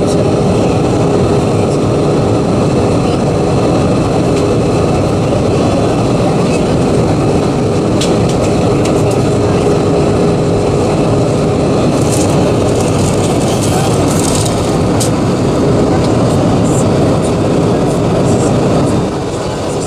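Steady roar of airflow and engines in the cabin of an Airbus A320-232 in flight, heard from a seat over the wing, with a constant hum tone running through it. A few faint rattles or ticks come in about halfway through, and the noise eases slightly near the end.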